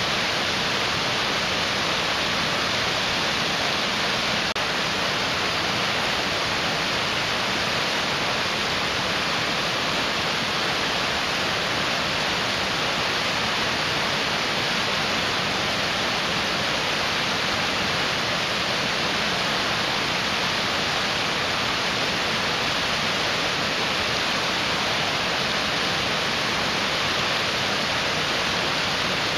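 Mountain stream rushing: a steady, even hiss of fast-flowing water.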